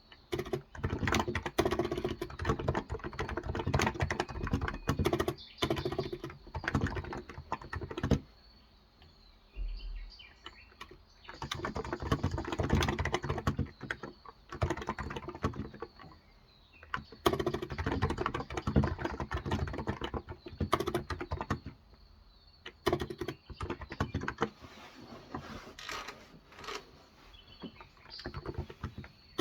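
Typing on a Cox Endeavour electrostatic capacitive keyboard with 35 g switches: runs of rapid keystrokes, broken by a pause of a few seconds about a third of the way in and a shorter one later.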